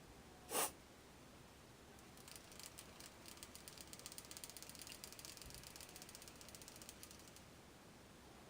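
A single sharp click, then about five seconds of rapid, fine ratcheting clicks from a small mechanism.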